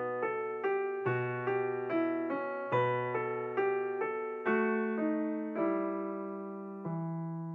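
Calm background piano music: a slow run of single struck notes, about two a second, the last one near the end left to ring and fade out.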